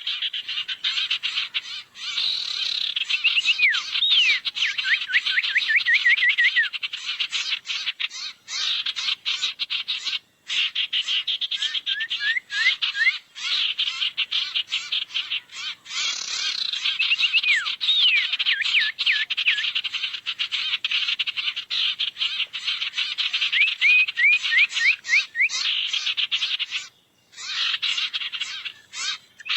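Lure recording of sirtu bird calls: fast, dense chattering ticks with repeated runs of short, quick-sweeping whistled notes, broken by brief gaps about ten seconds in and near the end. It sounds thin, with no low end.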